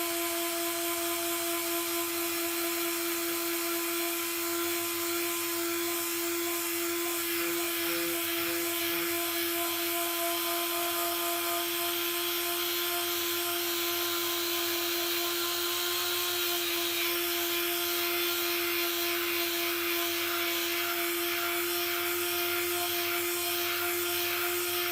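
Electric power tool running steadily at high speed, with a constant high hum and a hiss that turns rougher from about halfway through.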